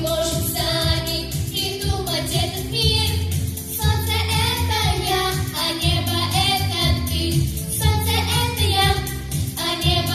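Children's vocal trio singing a song, the voices blending over a recorded instrumental accompaniment with a steady bass beat.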